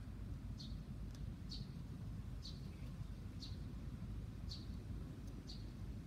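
A small bird giving a short high chirp about once a second, six times, over a low steady rumble.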